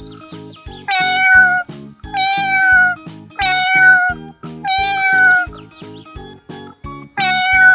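Domestic cat meowing five times in a row, each meow a clear pitched call sliding slightly down, over bouncy background music with a steady beat.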